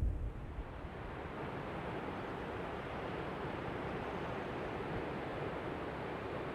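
Sea waves washing onto a sandy beach: a steady, even rush, with some wind on the microphone.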